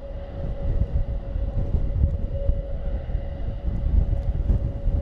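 The four turboprop engines of an Airbus A400M military transport running on the ground as the propellers wind up, giving a steady high-pitched whine. Heavy wind rumble on the microphone lies under it.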